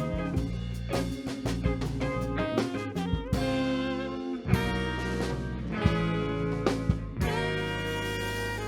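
Live band playing an instrumental passage with no vocals: guitar, saxophone, piano, bass and drums, sustained chords over steady drum hits.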